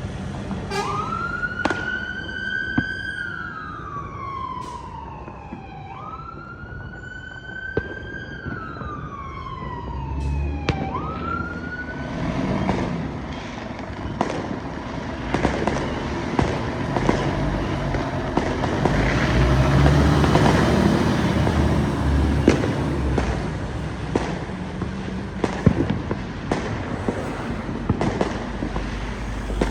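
An emergency vehicle siren sounding a slow wail that rises quickly and falls slowly, three times, then stops about twelve seconds in. After that, fireworks crackle and bang repeatedly over the low rumble of road traffic.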